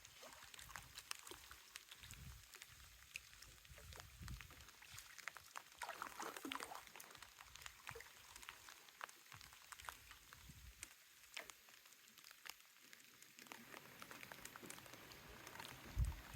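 Near silence: faint outdoor ambience with scattered small clicks and ticks, soft low rumbles of wind on the microphone coming and going, and a single low thump near the end.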